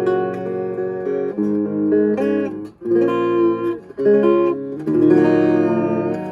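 Vintage Silvertone hollowbody electric guitar played clean, recorded direct with no effects, strumming a series of chords with short breaks between them. The last chord, struck about five seconds in, is left to ring and fade.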